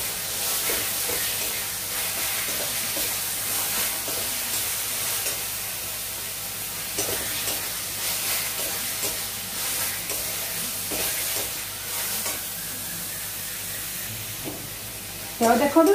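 Masala paste sizzling as it fries in oil in a metal kadai, with a steel spoon stirring and now and then scraping against the pan.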